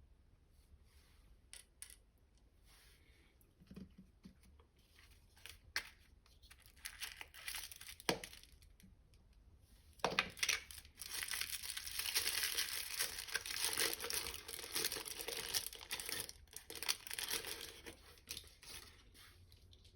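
Toy packaging being handled and torn open: small taps and rustles at first, then about ten seconds in, a long stretch of loud tearing and crinkling.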